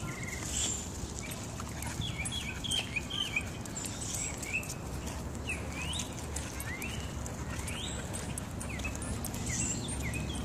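Small birds chirping in short, quick calls that sweep up and down, scattered throughout, over a low steady outdoor rumble.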